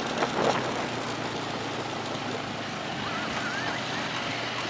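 ATV engine running steadily while riding, under an even rush of noise.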